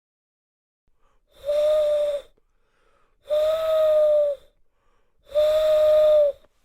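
An animal call sounds three times, about two seconds apart. Each call lasts a little under a second and holds a steady, slightly hoarse pitch.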